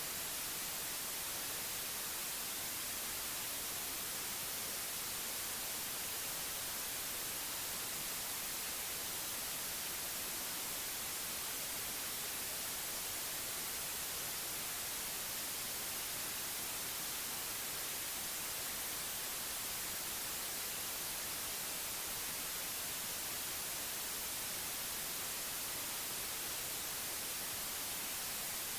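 Steady white noise: an even hiss, strongest in the high end, with no change in level.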